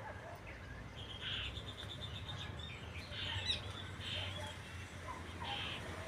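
Small birds chirping and singing in short phrases, with a quick run of repeated notes between one and two seconds in, over a low steady rumble.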